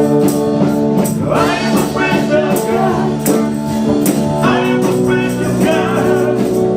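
Live praise band playing a worship song: guitar and sustained chords with a tambourine beating steadily, and voices singing a sung phrase twice.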